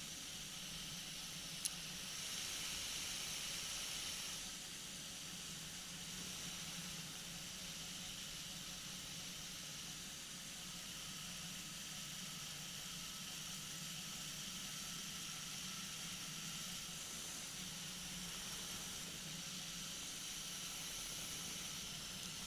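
Flexwing microlight trike in flight: a steady hiss with a faint low engine drone, and a single brief click about two seconds in.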